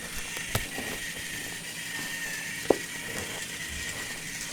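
Battery-powered TOMY toy train running on plastic track: a steady high motor and gear whine, with a few sharp clicks, the loudest about two-thirds of the way through.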